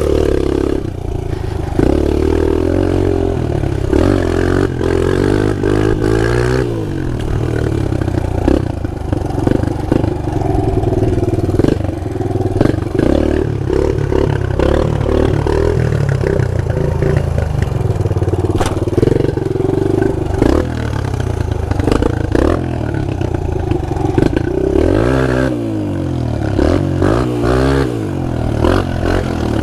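Pit bike engine running hard and being revved up and down, with several falls and climbs in pitch, over a run of short rattling knocks.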